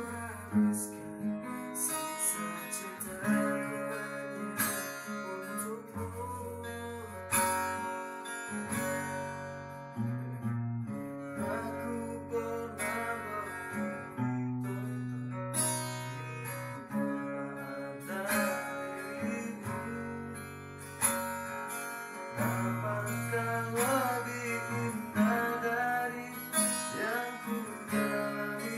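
Acoustic guitar music, plucked and strummed notes over sustained low bass notes.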